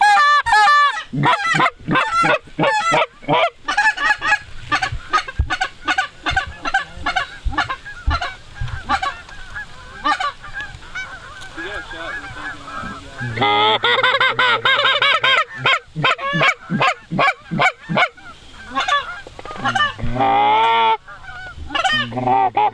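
Canada geese honking, many short calls in quick succession as a flock comes in. The honking grows louder and denser about halfway through.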